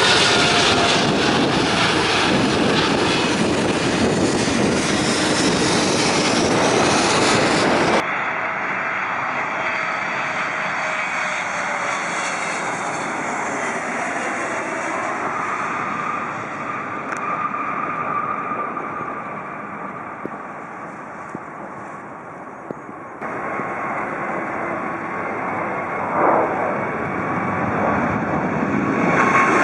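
Jet airliner engines passing by, a loud steady rush with whining tones that slide down in pitch. The sound changes abruptly about 8 and 23 seconds in, like separate recordings spliced together.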